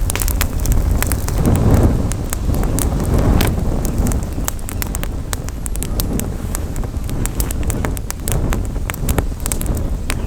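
Campfire crackling, with frequent sharp pops and snaps over a low rumble of wind on the microphone.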